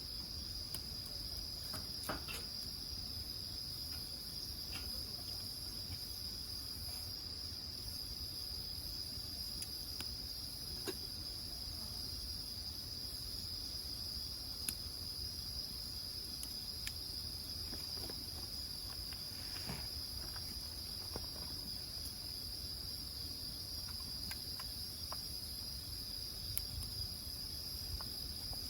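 Crickets chirping in a steady high trill, with a few sharp pops from a wood fire crackling now and then.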